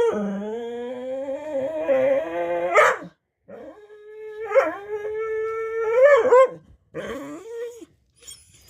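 A talkative dog 'talking' in three drawn-out, howl-like calls that bend in pitch: two long ones of about three seconds each, then a short one.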